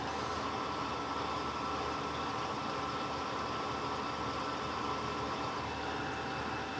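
Electrolux LTC15 washing machine running with a steady mechanical hum, washing sneakers; the hum eases slightly near the end.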